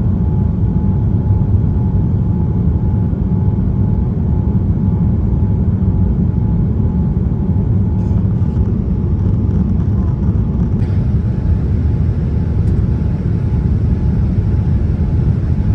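Steady low roar of a Boeing 787-10 airliner, heard as engine and airflow noise, with no change in pitch.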